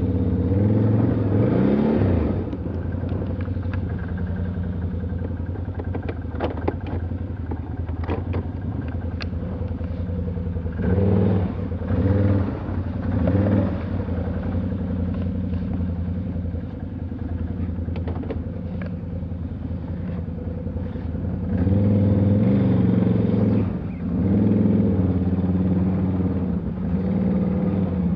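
Off-road vehicle engine running steadily, revved up in bursts at the start, twice around the middle and again for several seconds near the end, with a few sharp clicks and knocks in between.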